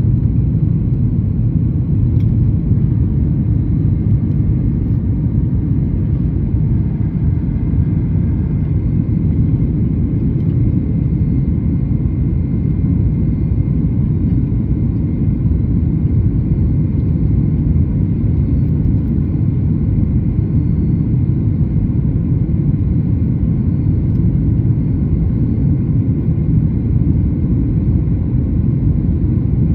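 Steady low rumble of a Boeing 737 MAX 8's CFM LEAP-1B engines and airflow, heard inside the passenger cabin.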